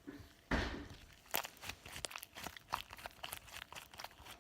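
Slime being squeezed and worked by hand: a squelchy burst about half a second in, then a run of sharp, irregular little clicks and pops.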